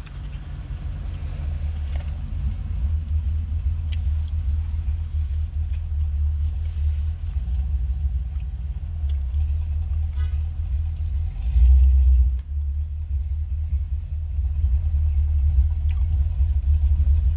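Steady low rumble, swelling briefly louder about twelve seconds in.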